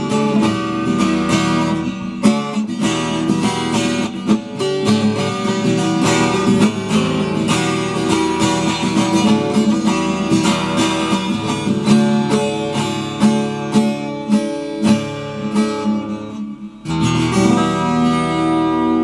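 Acoustic guitar strumming chords, with no singing. Near the end it breaks off briefly, then a chord rings out.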